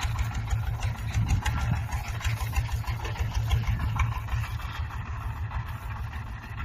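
Straw baler machinery running steadily with a low, fast-pulsing engine-like rumble.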